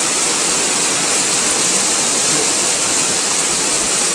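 Steady, even rushing hiss of water, with no separate impacts standing out.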